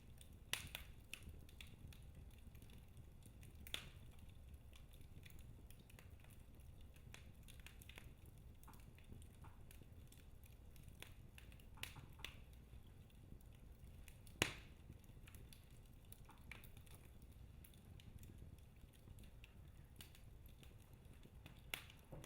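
Wood fire in a fireplace crackling softly: scattered sharp pops and snaps from the burning logs, a dozen or so, the loudest about two-thirds of the way through, over a faint low rumble.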